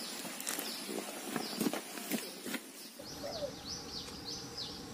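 Birds calling: a repeated quick chirping and a dove cooing, starting about three seconds in. Before that, a few light clicks and knocks.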